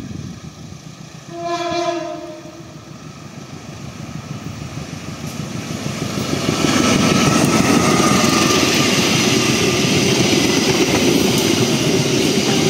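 Indonesian diesel locomotive's horn sounds one blast of about a second, a little over a second in. Then the train's noise builds and it runs past close by, its wheels clattering on the rails.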